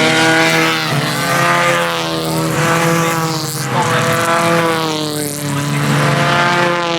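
Hyundai Excel race car engines running hard, their pitch rising and falling several times as they accelerate and change gear.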